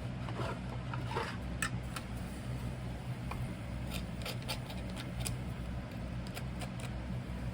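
Scattered light clicks and taps from handling as a fresh copper casting is taken out, over a steady low hum.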